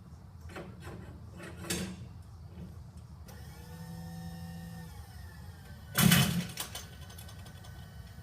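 A small electric motor whines steadily for about a second and a half, then a loud sharp crack comes about a second later, with a few light clicks before the motor starts.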